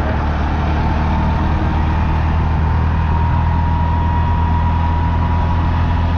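Steady engine drone of a road vehicle the recordist is travelling in, with a faint constant whine above the low hum.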